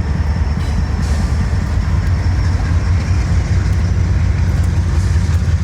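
Train running, a loud, steady low rumble.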